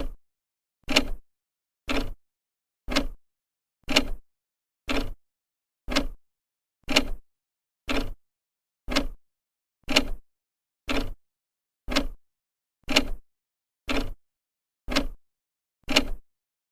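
Old clock ticking with its second hand, one sharp tick each second, steady and even, with silence between the ticks.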